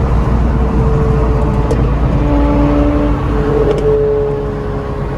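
Car driving at steady speed: a loud, even engine and exhaust drone over road noise, its pitch holding steady with small shifts about two seconds in and again near four seconds.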